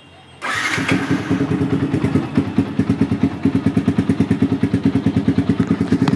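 Yamaha R15's single-cylinder engine breathing through a modified aftermarket exhaust: it fires up suddenly about half a second in and settles into a loud, lumpy idle of evenly spaced exhaust pulses, roughly a dozen a second.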